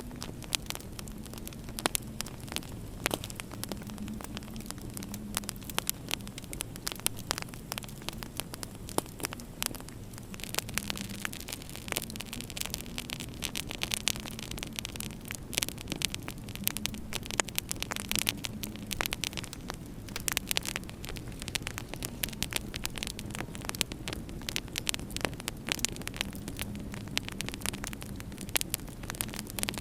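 Wood fire in a fireplace crackling and popping, with frequent irregular sharp snaps, over a steady low hum.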